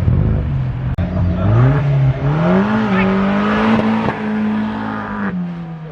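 Car engine accelerating hard: its pitch climbs steeply from about a second in, holds high, then eases off near the end.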